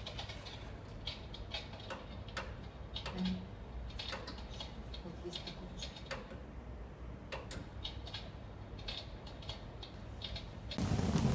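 Irregular light crackling clicks over a low hum from an electric fireplace hearth, the kind of crackle its flame effect runs with. A louder rushing noise sets in near the end.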